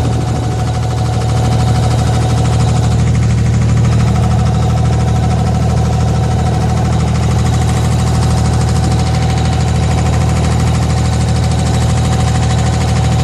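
Boat engine running steadily, a loud low drone with a rapid throbbing pulse.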